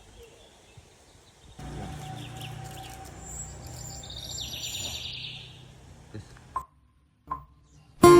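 Wild birds chirping, with a fast trill that falls in pitch about halfway through, over a low steady hum. The sound then cuts out almost to silence, and loud music starts right at the end.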